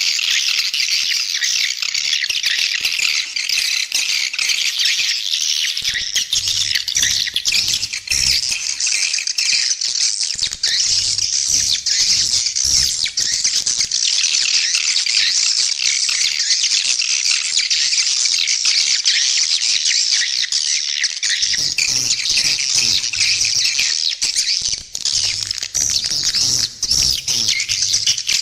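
Recorded swiftlet call: a dense, continuous chorus of high, rapid swiftlet chirps and twitters, the lure sound played to draw swiftlets into a nesting house.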